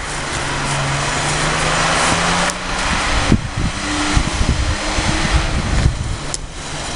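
Engine of a Nissan 4x4 running under load: a steady note for about two and a half seconds, then a higher, uneven one, with a few sharp knocks over it.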